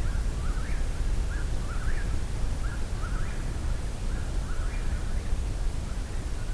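Eastern whip-poor-wills singing their quick, repeated whistled "whip-poor-will" phrase, more than one bird, the phrases overlapping, over a low steady rumble.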